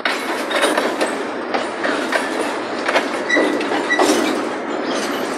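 Freight train of boxcars rolling past at close range, its wheels clattering over the rails with many irregular clanks and knocks over a steady rolling rumble.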